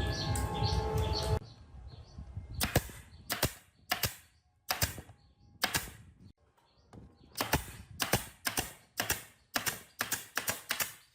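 A series of sharp knocks or taps, about fifteen, spaced irregularly with some in quick pairs, starting about a second and a half in after a stretch of bird-like chirping.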